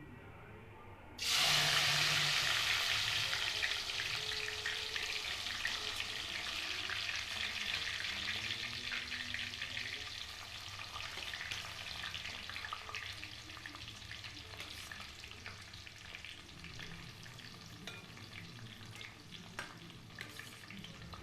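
Chopped onions and tomatoes tipped into hot coconut oil, starting a loud sizzle about a second in that slowly settles into a softer frying hiss, with a few light clicks.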